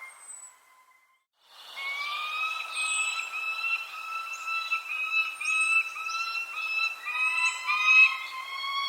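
Short, very high bird chirps every couple of seconds over a steady, high whistling tone with overtones. The audio drops out briefly about a second in.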